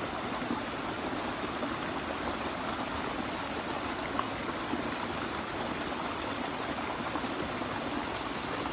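A stream of water flowing with a steady, even rush.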